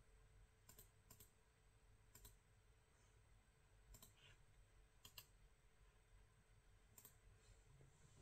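Faint, sharp clicks, about six of them at irregular spacing, over near-silent room tone.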